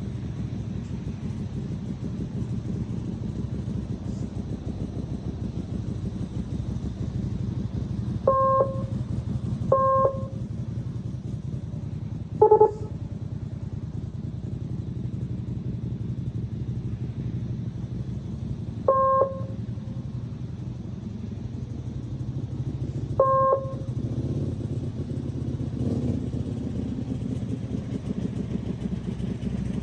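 Small motorcycle engine running steadily at low speed. Short electronic beeps sound about five times, with one lower-pitched beep between them.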